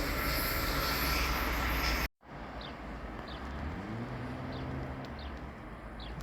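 A passing train's steady rolling and wheel noise, which cuts off abruptly about two seconds in. Quieter trackside ambience follows, with short repeated bird chirps and a faint low hum that rises and then holds.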